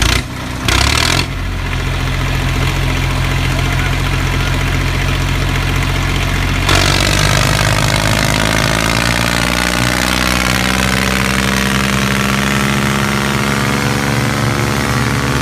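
A motor running steadily, with two short louder bursts in the first second. About seven seconds in the sound changes: more hiss comes in and the pitch drifts slowly.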